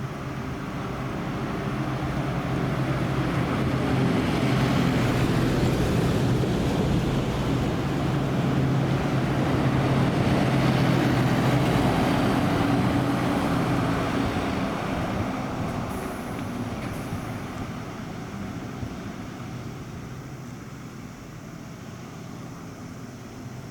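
A large bus's diesel engine running as it passes close by: a steady low engine hum with road noise that builds over the first few seconds, holds loud through the middle, and fades away over the second half.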